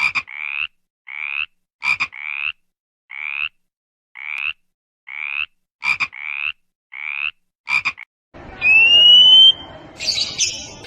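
An animal's short calls, about a dozen, repeated once or twice a second, with a few sharp clicks among them. Near the end they give way to a rising whistle-like tone and a short noisy burst.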